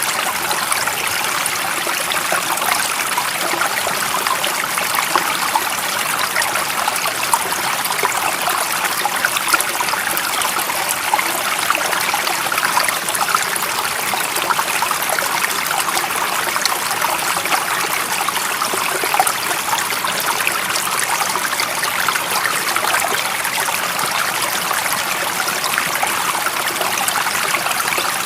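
A stream of running water flowing steadily: an even rush with fine trickling flickers that never lets up.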